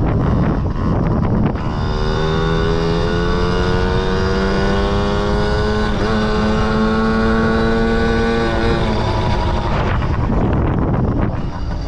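Small single-cylinder two-stroke engine of a Yamaha PW50 mini dirt bike under way. It revs up gradually, holds fairly steady for a few seconds, then backs off near the end, with wind rumble on the microphone underneath.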